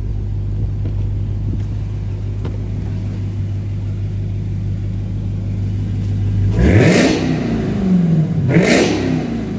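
Dodge Hellcat's supercharged 6.2-litre Hemi V8 idling through a titanium aftermarket exhaust with its valves closed, then revved twice near the end, each rev rising and falling quickly, about a second and a half apart.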